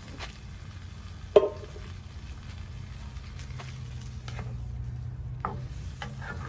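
A utensil stirring and clanking in a cast iron pot of frying bacon, onions and cauliflower, with scattered knocks and one sharp ringing metal clank about a second and a half in, over a steady low rumble.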